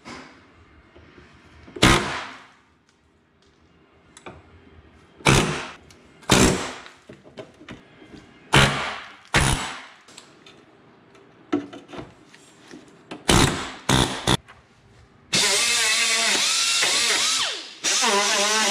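Power tool cutting the rusted sheet metal of a car's rocker panel, run in about eight short bursts and then for a longer stretch near the end, its pitch wavering as it loads in the cut.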